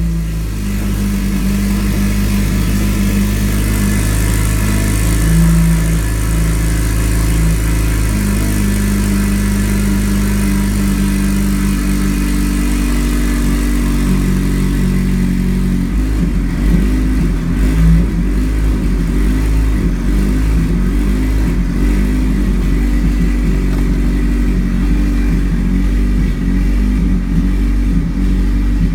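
Car engine with a hood-exit exhaust running at high idle just after a cold start. The note is steady at first and turns rougher and more uneven about halfway through.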